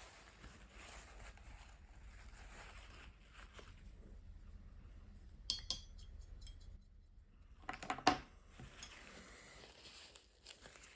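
Soft rubbing of a water-based brush-tip marker stroking across watercolour paper. It is broken by a sharp click about halfway through and a louder cluster of clicks and clatter about eight seconds in, as the markers are handled.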